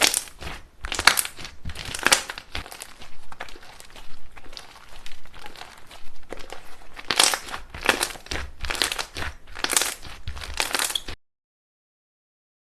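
Slime being squeezed and pressed by hand, giving a run of sharp crackles and pops, roughly one a second, that cuts off suddenly near the end.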